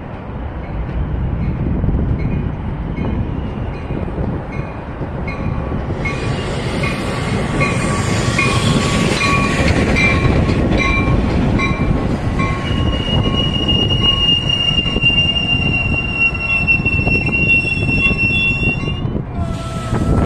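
Metra bilevel commuter train rolling into the station and braking: a steady low rumble of the passing cars with a regular tick about twice a second, then a high, steady brake squeal from a little past halfway that stops abruptly shortly before the end.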